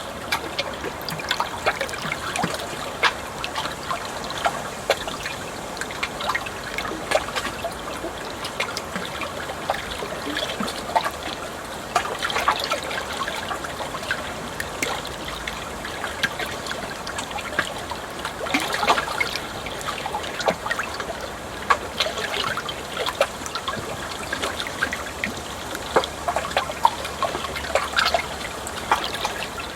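Water trickling and flowing steadily, with many small, irregular splashes.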